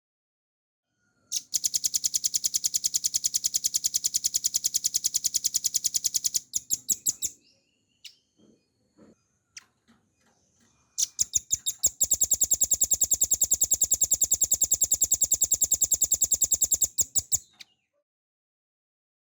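Velvet-fronted nuthatch singing two long, rapid rattling trills of evenly repeated high notes, each about six seconds long, with a few soft single notes in the gap between them.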